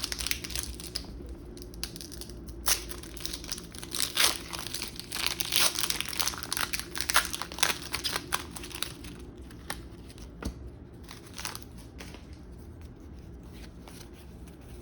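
Foil wrapper of a Pokémon booster pack being torn open and crinkled, with a dense run of crackling through the first half, then quieter handling toward the end.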